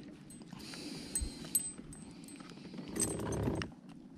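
Light clicks, small rattles and rustling from handling a just-caught bass and the tackle in a kayak, likely as the hook is worked out. A hissy rustle comes early, and a louder scuffle about three seconds in.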